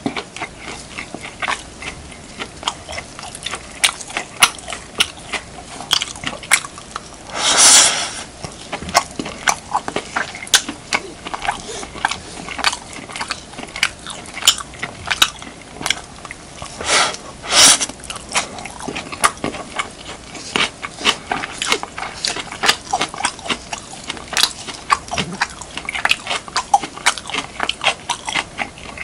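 Close-miked mouth sounds of someone chewing beef, kimchi and rice: a steady run of short, wet clicks and crunches, broken by two longer, noisier bursts about eight and eighteen seconds in.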